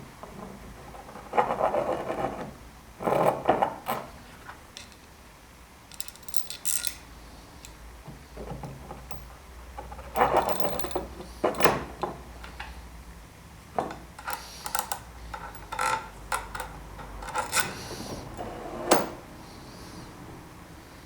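Hand work on jig parts: irregular bursts of clatter and scraping as pieces are handled, turned and fitted, with pauses between.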